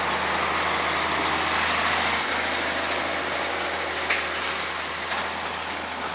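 Heavy truck engine idling steadily, a low even hum under a broad hiss.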